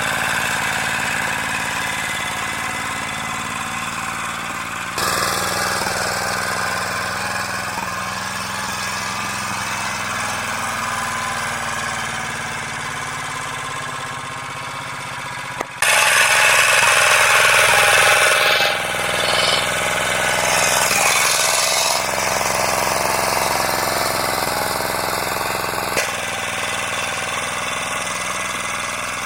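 Engine running steadily with a knocking beat, across several shots that change abruptly about 5, 16 and 26 seconds in; it is loudest and brightest between about 16 and 22 seconds in.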